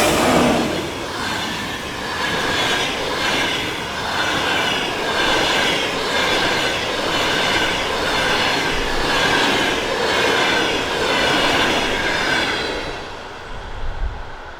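Electric-locomotive-hauled passenger train passing at speed. The loudest moment, the locomotive going by, comes right at the start; then the coaches roll past, their wheels clattering over rail joints in an even rhythm about once a second, until the end of the train passes about 13 seconds in and the sound falls away.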